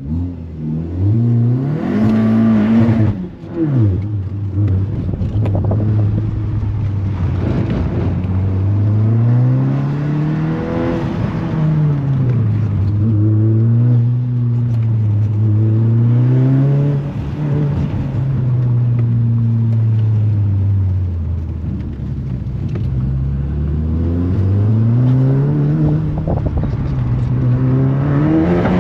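Volkswagen Golf engine heard from inside the cabin on an autocross run, revving up and easing off again and again as the car accelerates and slows between cone sections. Its pitch climbs and then drops sharply about three seconds in.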